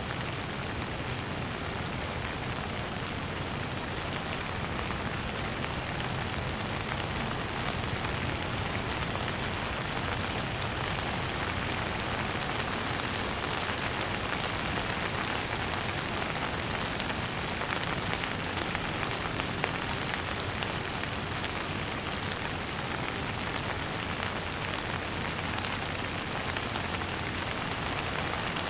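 Steady gentle rain falling and pattering on surfaces, an even unbroken hiss.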